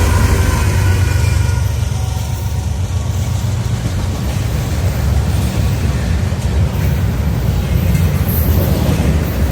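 Freight train rolling past, a loud steady low rumble of locomotives and cars on the rails.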